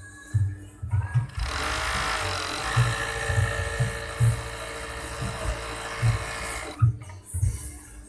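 Overdeck (coverstitch) sewing machine running at speed for about five seconds: it starts about a second and a half in and stops abruptly near the end.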